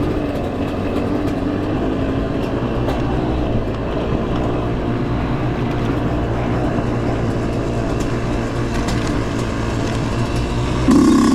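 Husqvarna dirt bike engine running steadily under way, with a low rumble and scattered ticks and rattles. Near the end it briefly gets louder.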